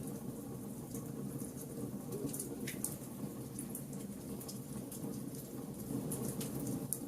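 Burning wood fire: a steady low rush of flames with frequent small, irregular crackles and pops from the wood. About three seconds in comes a short falling hiss.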